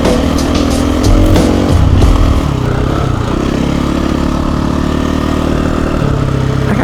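KTM 350 EXC-F's single-cylinder four-stroke engine running, revved up briefly in the first two seconds, then held at a steady, lower engine speed.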